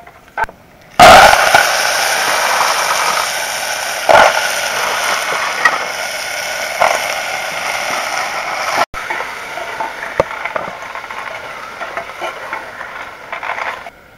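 Food frying in hot oil: a loud sizzle that starts suddenly about a second in and slowly dies down, with a few sharp pops along the way.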